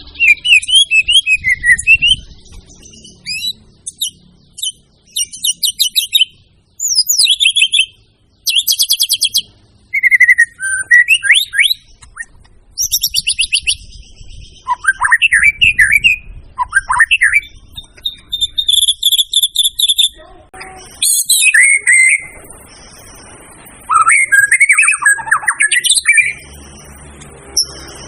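White-rumped shama (murai batu) singing continuously in a varied, full-repertoire song. Phrases of a second or two follow one another with short gaps, mixing rapid runs of repeated notes, rising and falling whistled glides and clear held whistles.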